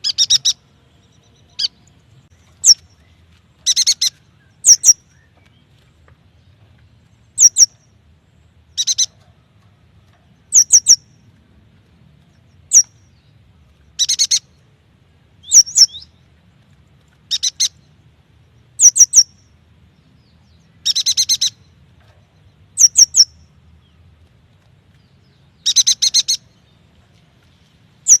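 Yuhina calling: short, sharp chirps and brief buzzy bursts, each under a second, repeated every one to two seconds, some as quick downward-sliding notes.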